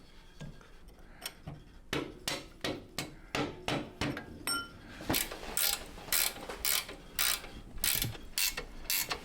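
A socket ratchet wrench worked back and forth to tighten bolts, giving short runs of ratcheting clicks about three times a second. The strokes start about two seconds in and grow louder about halfway through.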